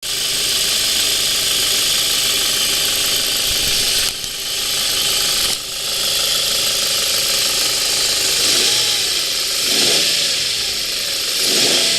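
Ford Mondeo ST220's 3.0 V6 engine (MEBA) running under a loud steady hiss, with the revs rising and falling about three times in the second half.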